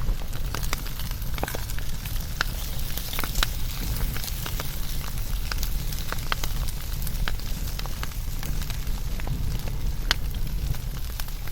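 Wood fire burning with irregular sharp crackles and pops over a low rumble of flames.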